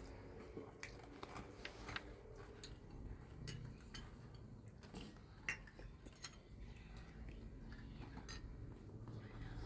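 Faint, irregular light clicks and clinks of kitchenware, with one sharper click about five and a half seconds in.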